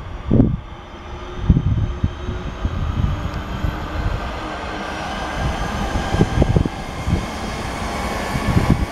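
A London Midland electric multiple unit passing at speed, a continuous running rumble with repeated short low knocks from its wheels on the track.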